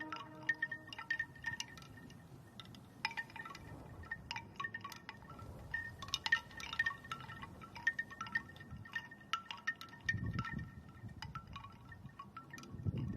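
Light chime tones tinkling at irregular intervals. A low rumble comes in about ten seconds in and again near the end.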